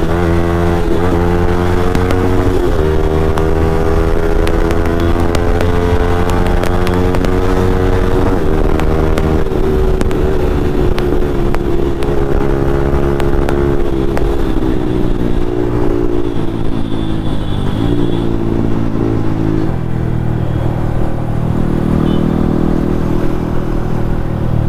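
Yamaha MT-15's single-cylinder engine through an aftermarket Akrapovic exhaust, ridden hard at high revs. Its pitch holds and then steps and slides a few times as the throttle and gears change.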